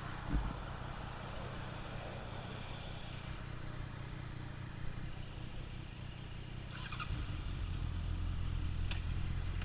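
Motorcycle engine running under a steady haze of road noise. The engine grows louder and fuller about seven seconds in.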